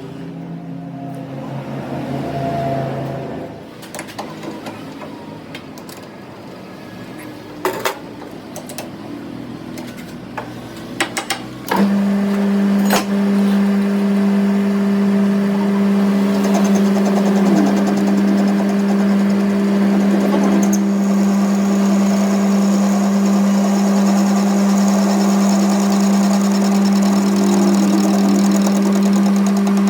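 A few scattered clicks and knocks, then about twelve seconds in a machine starts and runs with a steady, even hum.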